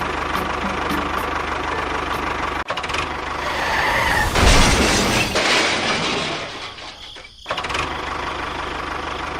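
A small engine running steadily, growing louder in the middle for a couple of seconds, dropping away briefly near the end and then running steadily again.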